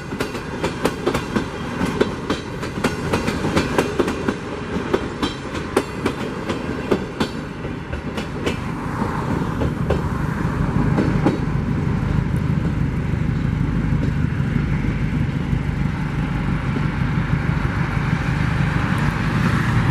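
Passenger coaches of a train passing close by, their wheels clicking rapidly over the rail joints. About eight seconds in the clicking stops and a steady rumble fills the rest as the train moves away.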